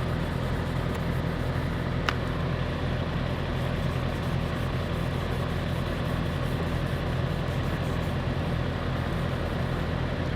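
Semi truck's diesel engine idling steadily, a low even hum.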